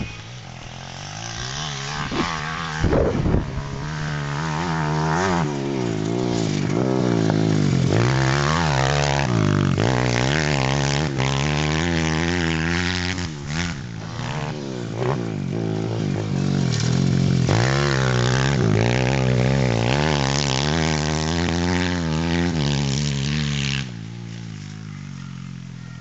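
140 cc YCF pit bike's single-cylinder four-stroke engine being ridden, its pitch climbing and falling again and again as it revs and shifts. A few sharp knocks come early on, and the engine drops away near the end.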